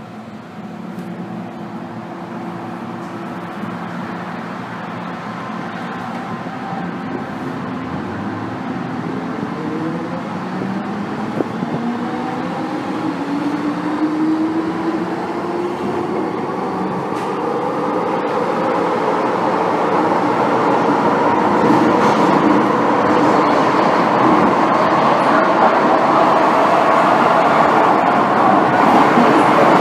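MTR M-Train electric multiple unit accelerating away from a station, heard from inside the car: several traction-motor tones rise together in pitch from a few seconds in, over a rumble of wheels on track that grows steadily louder as speed builds.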